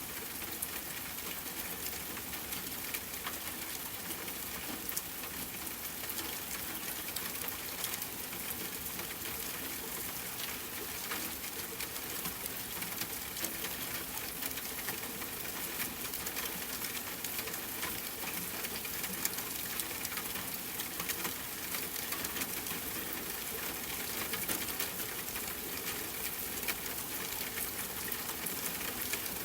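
Steady rain falling with a campfire crackling: an even hiss sprinkled with many small, irregular pops.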